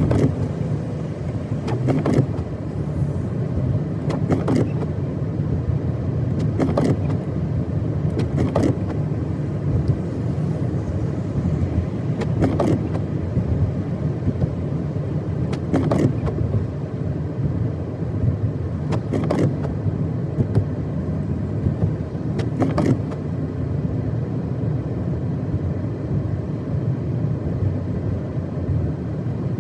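A car driving on a snow-covered road: a steady low rumble of tyres and engine, with a short swish every two to four seconds.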